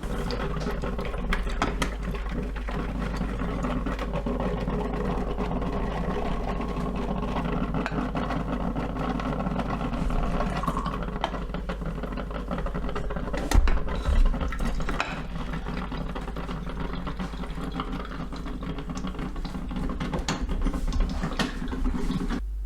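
Steady machine-like whirring over a constant low hum, with scattered clicks and a few louder knocks about two-thirds of the way through; it starts and stops abruptly.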